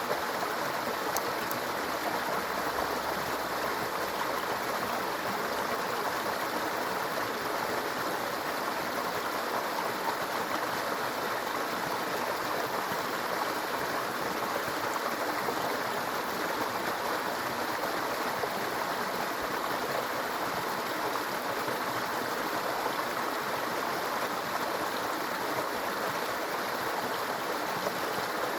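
Small brook babbling over stones, a steady gurgling rush of water.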